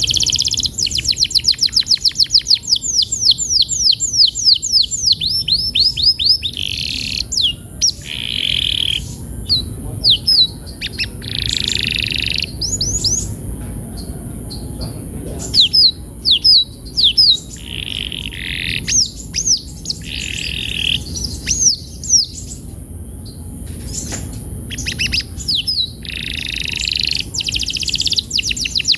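Domestic canary singing: fast trills of repeated sweeping notes and buzzy rolled phrases, each changing after a second or two. A faint steady high hiss runs underneath.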